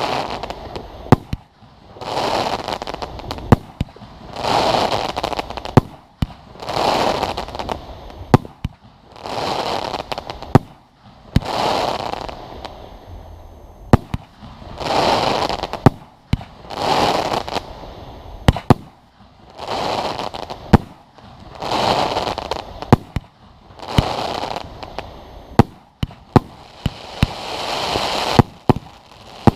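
Aerial fireworks going off in a display: frequent sharp bangs of shells bursting, with a swell of crackling about every two seconds that rises and dies away.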